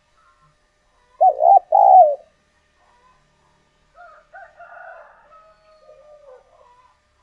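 Spotted dove cooing: a loud two-note coo about a second in, then fainter cooing from about four seconds in.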